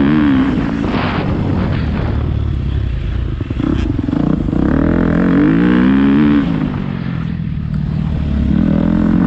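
Motocross dirt bike engine revving as it is ridden, its pitch repeatedly rising and falling with the throttle.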